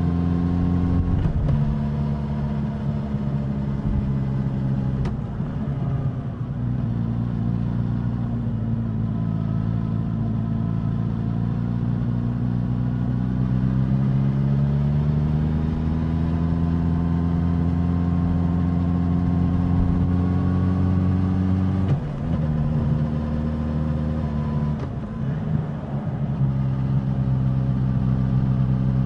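Suzuki GSX-S1000's inline-four engine and exhaust under way, the note rising and falling with throttle and gear changes. About halfway through it climbs steadily in pitch and holds, then drops suddenly about three-quarters of the way in.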